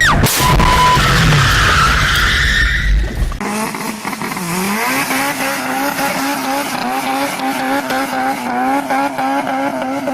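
Loud rumbling noise for the first three and a half seconds. Then it changes abruptly to a car engine held at steady high revs, with tyres squealing in a wavering whine over it.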